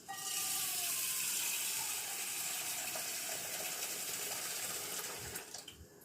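Water running steadily, starting suddenly and stopping about five and a half seconds in.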